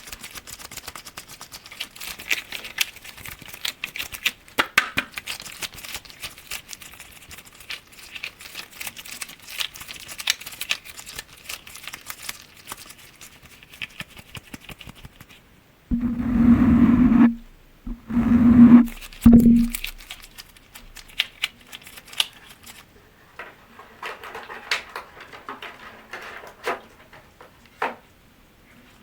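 Glass objects tapped with fingertips and nails in quick, light, irregular taps. About halfway through, two louder sustained sounds of a second or two each, with a steady low hum, break in before the tapping resumes.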